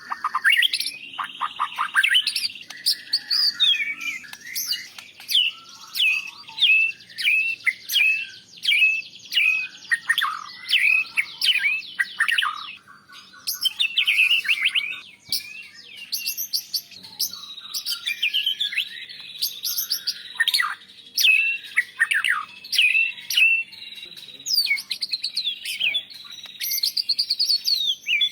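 White-rumped shama singing a fast, continuous run of sharp whistled notes, many of them sweeping downward, delivered in quick phrases with brief pauses.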